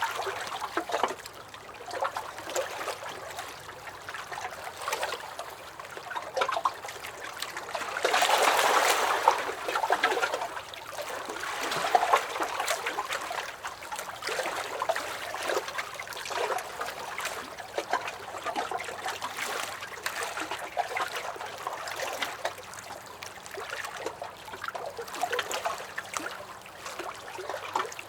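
Small lake waves lapping against a wooden dock, with many short, irregular splashes over a steady wash of water. A louder run of splashing comes about eight seconds in.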